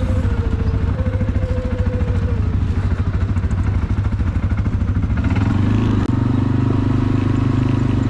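Quad bike engine running under way, with a fast, steady pulse. Its note rises about five seconds in and holds higher.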